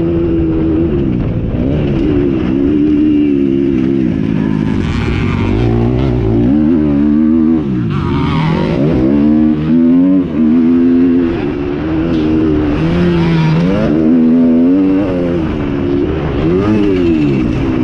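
Several off-road motocross motorcycle engines revving hard at once, their pitch repeatedly climbing and dropping as the riders throttle and shift.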